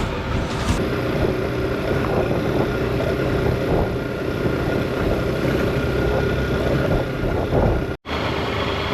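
Motorcycle engine running steadily while riding, with wind noise on the microphone. The sound cuts out for an instant near the end.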